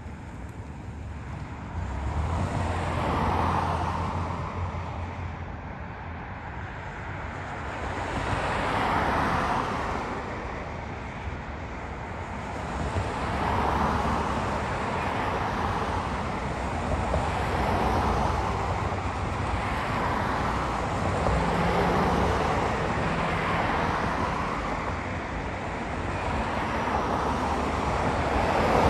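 Road traffic: cars passing one after another, each swelling up and fading away every few seconds over a steady low hum.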